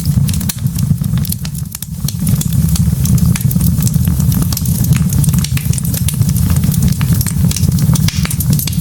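Wood logs burning in a fireplace: a steady low rumble of flame with a constant scatter of small crackles and pops from the burning wood.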